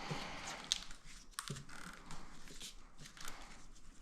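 Faint scattered clicks and short scrapes of hands working plastic parts loose on a motorcycle airbox as the lid comes off.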